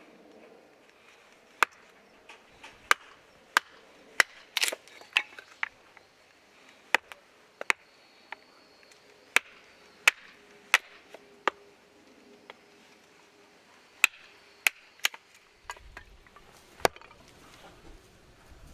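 A series of sharp, hard strikes, irregularly spaced at about one a second, with a brief scrape-like cluster a few seconds in.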